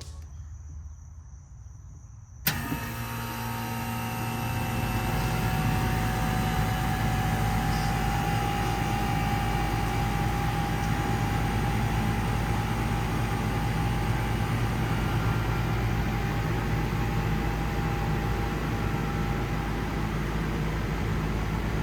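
1989 Carrier TECH 2000 three-phase central air conditioner condensing unit starting up: a sudden sharp onset about two and a half seconds in, then its Copeland reciprocating compressor and condenser fan running with a steady hum that grows louder over the next two seconds as it comes up to speed, then holds steady.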